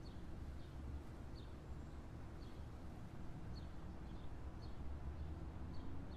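Faint outdoor ambience: a small bird gives short high chirps every second or so over a steady low rumble.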